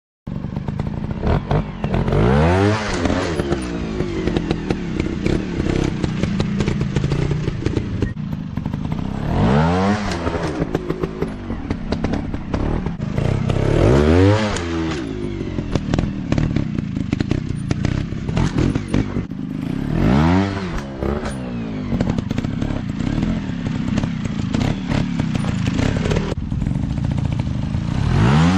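Dirt bike engine running hard off-road, with the throttle blipped again and again so the pitch rises and falls about five times. Clattering and knocking from the bike over rough ground runs under it.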